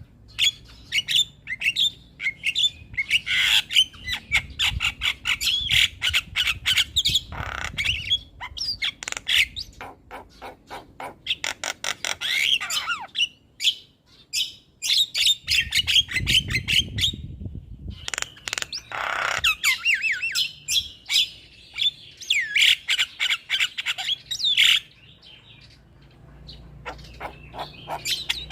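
Javan myna in full song: a fast, dense run of harsh squawks, clicks and whistled gliding notes with brief pauses, growing quieter in the last few seconds. A short low rumble sounds about two-thirds of the way through.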